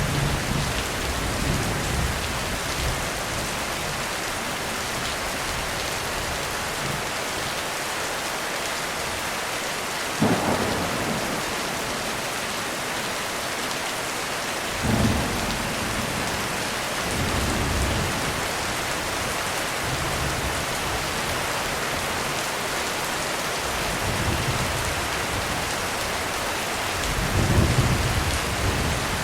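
Heavy rain falling steadily on a roof through a thunderstorm. A sharp thunder crack comes about a third of the way in and another around halfway, with low rolls of thunder swelling and fading after, the loudest near the end.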